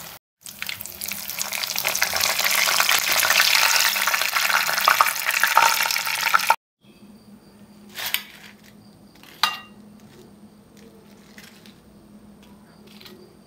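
Carrot cutlets sizzling loudly in hot coconut oil in a non-stick pan. The sizzle builds over the first few seconds and cuts off abruptly about six and a half seconds in. A quieter stretch follows, with a few light clinks of a spoon against a glass bowl.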